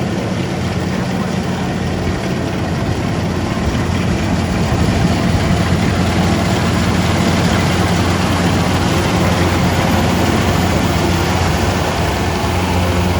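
Rice harvesting machine's engine running steadily, a heavy low drone that grows slightly louder about four seconds in.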